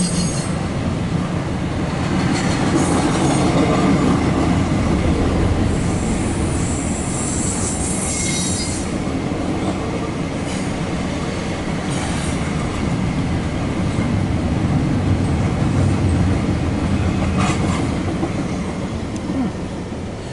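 CSX intermodal freight train rolling past on the rails: a steady rumble of its cars, with high wheel squeal several seconds in and a few sharp clicks of wheels over the rail joints.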